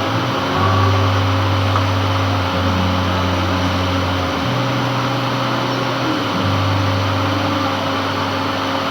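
Metal lathe running steadily while turning a gland, with a low hum that shifts pitch every couple of seconds.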